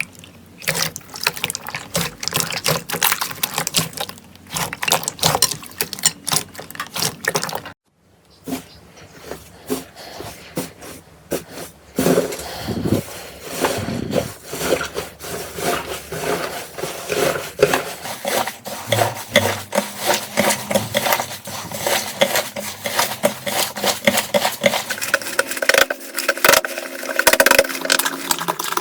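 Slime being squeezed, stretched and pressed by hand, making dense wet clicks, pops and squelches. The clicking breaks off about eight seconds in and resumes in a thicker, more continuous squelching.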